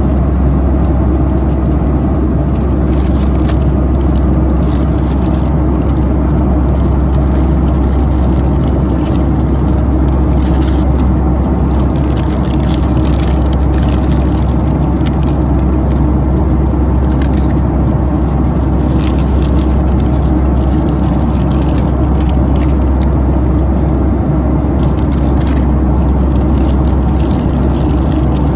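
Steady, loud drone of a Boeing 757-200's engines and rushing air, heard from inside the cabin in flight, with faint crackles now and then.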